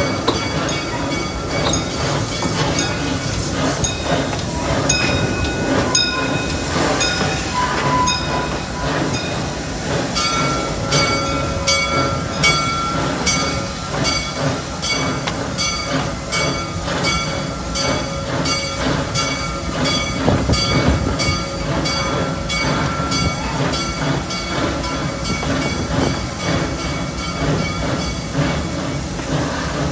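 Amusement-park railroad train running on its track: a steady rumble with wheels clicking over rail joints, settling into about two clicks a second about a third of the way in, and a thin, steady high squeal from the wheels.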